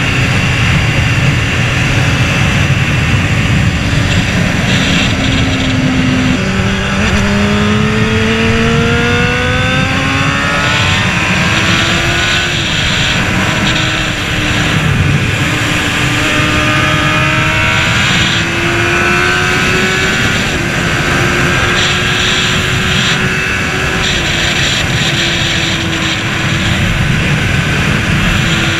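Honda CBR600RR's inline-four engine pulling along at speed under a steady roar of wind. Its note drops about six seconds in, then climbs steadily as it accelerates, with smaller dips partway through and later on before it holds.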